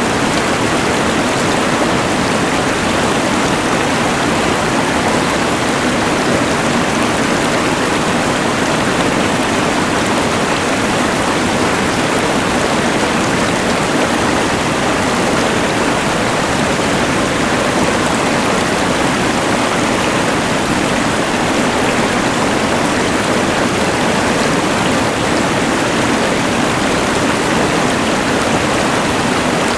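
Rushing mountain river mixed with the hiss of a LectroFan white noise machine: one even, unchanging rush of water and noise.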